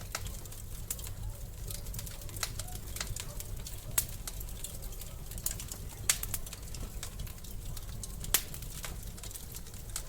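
Wood fire crackling in a fireplace: scattered sharp pops and snaps over a low steady rumble of the flames, with louder pops about four, six and eight seconds in.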